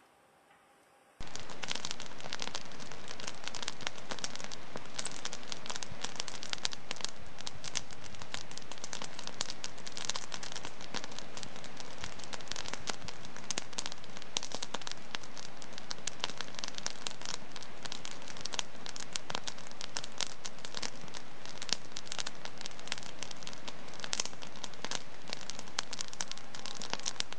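Wood fire crackling in a fireplace: a dense, steady run of small crackles and pops over a soft hiss. It starts abruptly about a second in, out of near silence.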